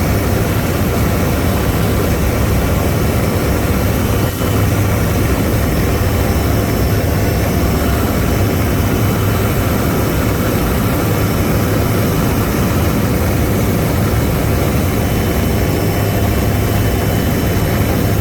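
Helicopter engine and rotor noise, steady and loud, with a strong low hum and a brief dip about four seconds in.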